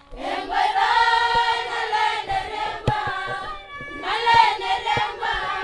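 A group of voices singing together in chorus, with a few sharp percussive hits.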